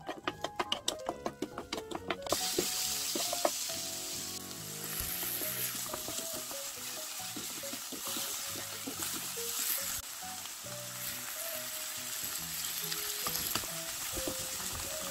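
A quick run of knife chops on a wooden cutting board, then about two seconds in a frying pan starts sizzling steadily as diced onion and minced pork fry, stirred with a wooden spatula.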